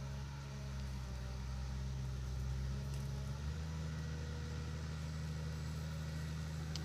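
A heavy diesel engine runs steadily at low revs. Its note shifts to a different pitch about three and a half seconds in.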